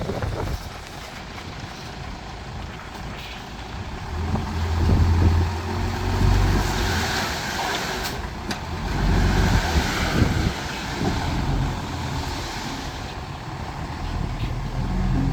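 Heavy earthmoving machinery's diesel engine running, with a low rumble that swells louder twice, each time with a rush of hiss above it.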